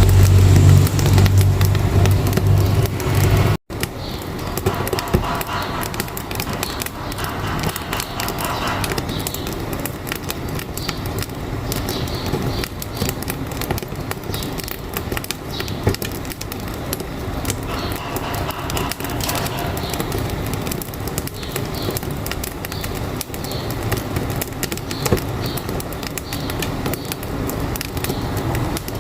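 A heavy truck engine rumbles for the first few seconds and cuts off abruptly. After that, a wood-stove fire crackles with many small, irregular pops and snaps.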